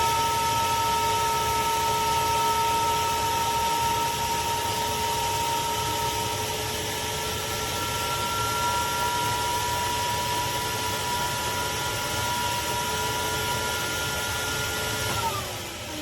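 Craftsman 16-gallon, 6.5 peak HP wet/dry shop vacuum running with a steady whine over a rush of air, then switched off about fifteen seconds in, its motor pitch falling as it spins down.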